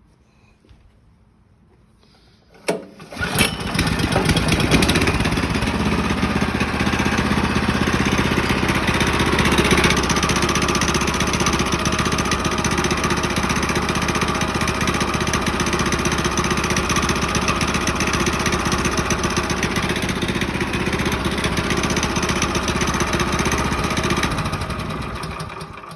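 Small single-cylinder gas engine of a Harbor Freight portable bandsaw sawmill, started with a sharp pull about three seconds in, catching at once and running steadily. Near the end it is shut off and dies away.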